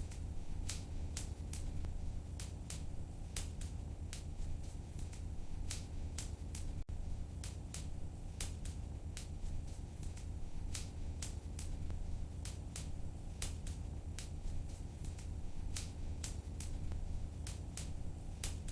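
Wood fire crackling in a fireplace: irregular sharp pops and snaps several times a second over a steady low rumble of the burning fire.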